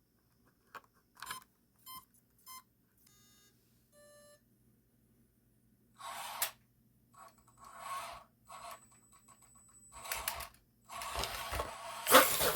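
An Axial SCX24 mini RC crawler's electronic speed controller sounding a few short startup beeps through its motor as it is powered up, then several short bursts of electric whirring and rattling as it is run, loudest near the end.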